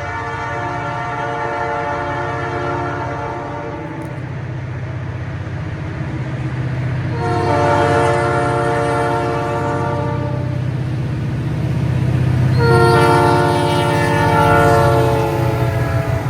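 Diesel locomotive's multi-chime air horn sounding three long blasts, each a chord of several notes, over the steady low rumble of the locomotive's diesel engines.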